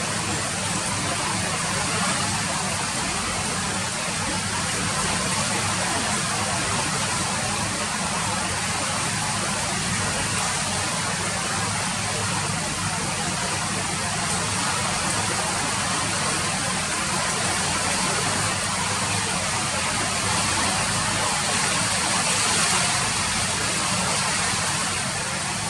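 Rain falling steadily: a dense, even hiss with no single drops or gaps standing out.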